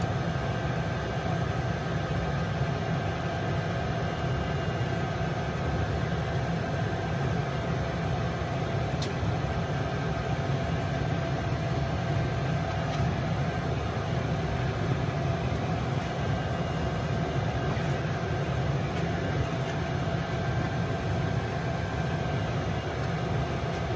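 A steady, unchanging machine drone, like an engine or motor running, with a faint steady whine over it.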